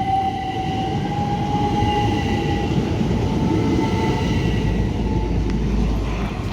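Class 387 Electrostar electric multiple unit running past the platform: a steady rumble of wheels on rail under a thin motor whine that rises a little in pitch. The low rumble grows heavier near the end.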